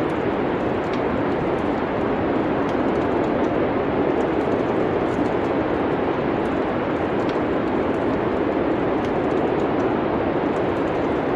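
Steady, even wind noise of a winter storm, with faint, scattered crackles of a wood fire in a fireplace.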